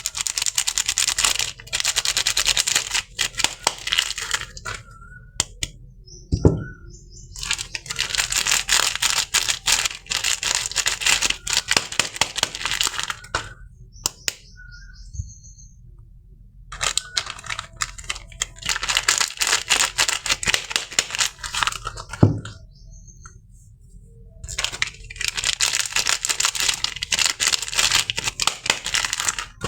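Soap packaging being unwrapped: four long stretches of dense crinkling and tearing, each several seconds long, with short pauses between. Two sharp knocks, the loudest sounds, come about six seconds in and again about twenty-two seconds in.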